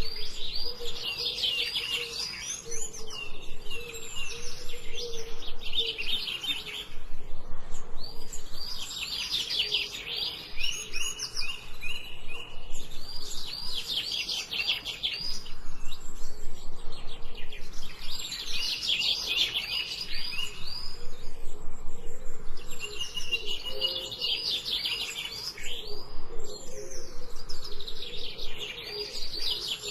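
Songbirds chirping in repeated bursts of rapid trilled chirps, each lasting a couple of seconds, with a fainter low wavering note underneath.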